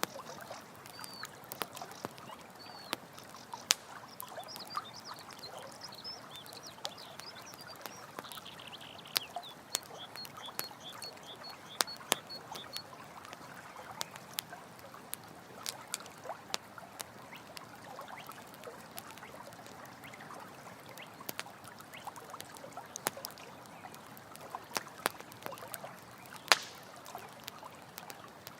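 Campfire crackling with frequent sharp pops over the steady rush of running water. Short high chirping calls come in the first few seconds and again as a quick run of notes about ten to thirteen seconds in.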